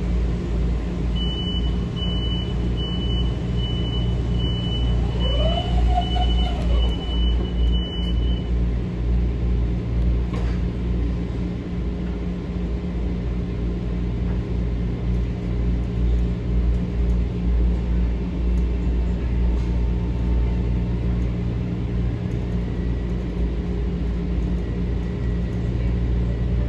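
Steady low rumble inside a Metro-North M7A electric multiple-unit railcar. A high, rapidly pulsing beep sounds for the first several seconds.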